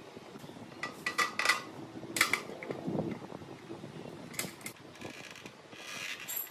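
Metal parts and tools clinking and clattering in several short bursts as they are handled, with a brief rasping noise near the end.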